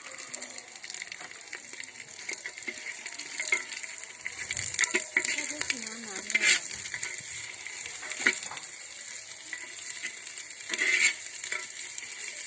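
Bay leaves, green chillies, whole garam masala and onion sizzling in hot oil in a clay pot, with a handful of scraping strokes as they are stirred against the pot.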